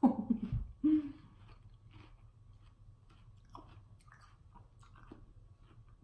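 A short vocal sound in the first second, then faint chewing and wet mouth clicks close to the microphone.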